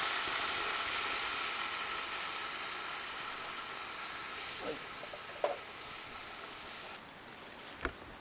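Canned tomatoes sizzling in hot oil in a wok over a gas burner, the sizzle slowly dying down as the cold tomatoes cool the pan. A metal ladle clinks against the wok a few times.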